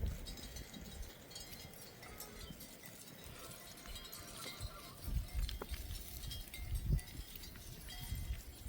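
Faint tinkling of small livestock bells on a flock of sheep and goats, with low rumbling swells now and then.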